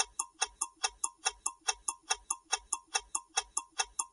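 Countdown-timer ticking sound effect: quick, even clock ticks, a little over four a second, marking the seconds left to answer a quiz question.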